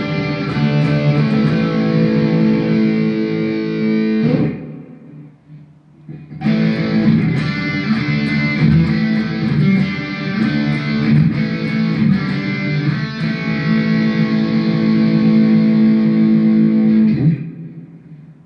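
Electric guitar played through a Mooer GE100 Pro multi-effects processor preset, with ringing chords. The playing stops about four seconds in, picks up again after a two-second pause, and stops again near the end.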